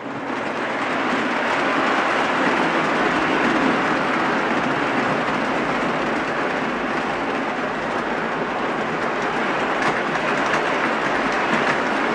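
O gauge Williams E7 model diesel locomotive and its passenger cars running on three-rail track: a steady rumble of motors and wheels that starts suddenly and builds over the first couple of seconds.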